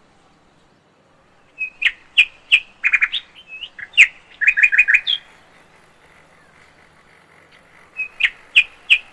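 Lovebirds chirping: a bout of sharp, high chirps and quick runs of notes begins about a second and a half in and lasts some four seconds, then after a pause another bout starts near the end.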